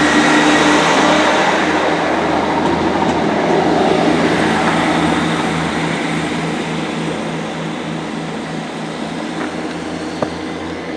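Class 158 diesel multiple unit running at the platform: a steady diesel drone with a throbbing low note and a few held tones, loudest for the first few seconds and then slowly fading. One sharp click about ten seconds in.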